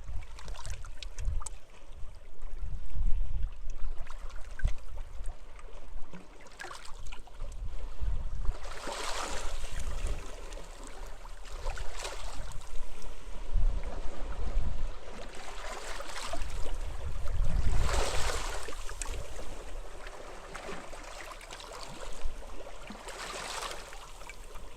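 Sea waves washing in on a beach, each wash swelling up and fading over a couple of seconds, several times. Wind buffets the microphone with an uneven low rumble throughout.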